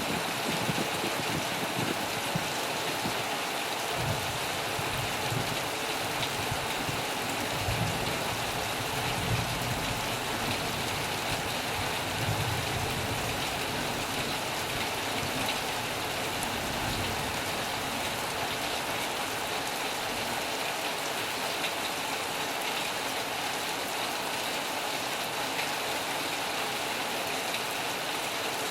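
Heavy rain falling steadily, with a low rumble that swells and fades through the first half.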